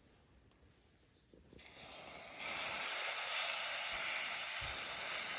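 Marinated beef short ribs (galbi) sizzling as they go onto a hot grill: a crackling hiss starts about a second and a half in, grows louder a second later, then holds steady.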